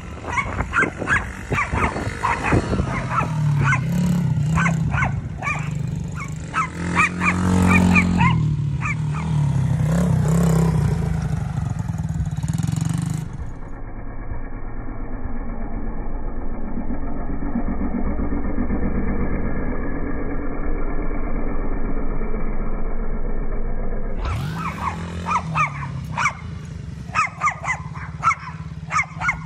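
Small single-cylinder four-stroke engine of an SSR 70cc dirt bike running and revving as it is ridden, with a dog barking repeatedly over it. For about ten seconds in the middle the sound turns dull and muffled, leaving a steady engine hum without the barks.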